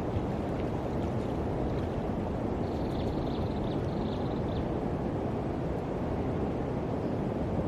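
Steady low rumble of wind buffeting the microphone, with faint high chirping for a couple of seconds midway.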